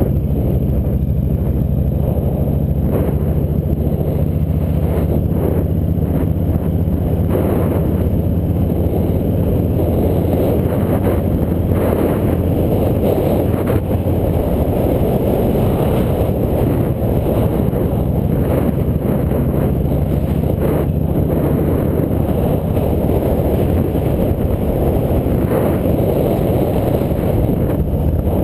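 Hero bike's engine running steadily at cruising speed, with a constant rush of wind and road noise over the camera microphone.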